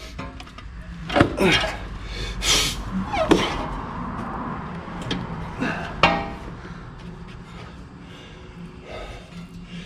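Hand tools and metal parts clanking and knocking, about half a dozen separate knocks in the first six seconds, during work on the torque converter bolts under the car. A faint steady low hum runs underneath.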